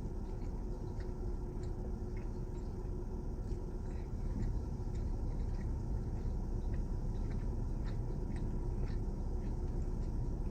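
A person chewing food with small wet mouth clicks, over a steady low rumble.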